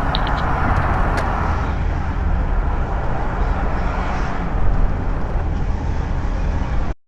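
Steady road and engine noise of a moving car picked up by a dashcam, heavy in the low end, with a few faint ticks in the first second or so. It cuts off abruptly near the end.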